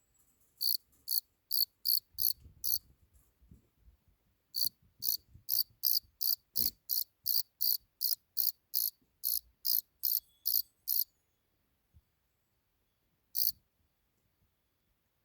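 Cricket chirping in short, evenly spaced high-pitched chirps about two a second. A run of six chirps, a pause of about two seconds, then a longer run of about fifteen, and one lone chirp near the end.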